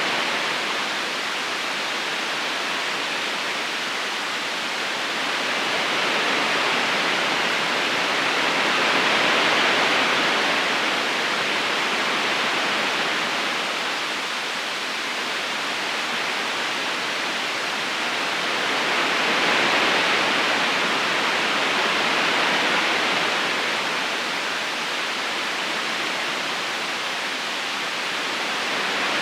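Flowing river water, a steady rushing current that swells and eases slowly every ten seconds or so.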